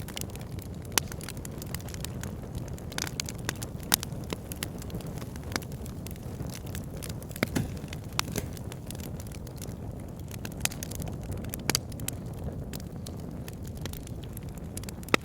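Wood fire burning in a log burner: a steady low rumble of flames under frequent sharp crackles and pops from the logs, with a few louder snaps scattered through.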